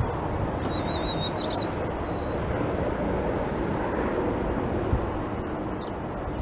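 A songbird calls once, a short wavering trill followed by two brief higher notes, over a steady rushing background noise.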